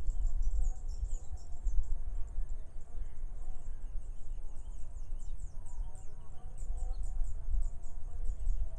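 Rice-field morning ambience: a gusting low rumble of wind on the microphone, over a steady stream of many short, very high-pitched bird chirps, with faint, wavering lower calls.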